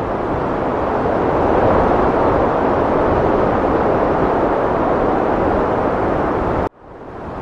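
Heavy wind blowing in a steady, dense rush that swells slightly about two seconds in. Near the end it cuts out abruptly for a moment, then fades back in.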